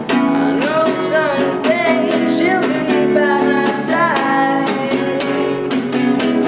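A busker strumming a guitar in a steady rhythm and singing his own song, his voice echoing in a subway tunnel. The singing runs through the first two thirds, then the guitar carries on alone.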